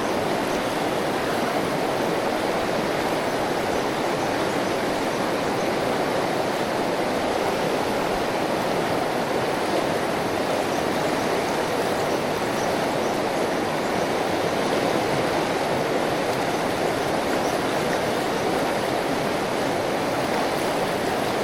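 Steady rush of river water flowing over a riffle, an even noise that does not change.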